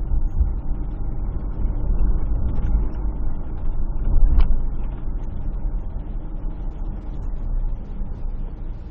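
Low, steady car rumble of engine and tyres, heard inside the cabin as the car drives slowly. A short click comes about four seconds in.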